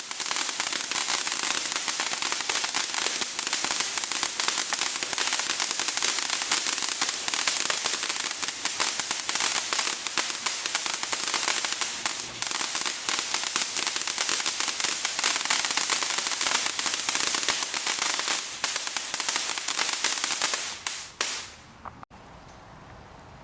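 A firework spraying sparks with a dense crackling hiss, many tiny pops packed together, which dies away and stops abruptly near the end.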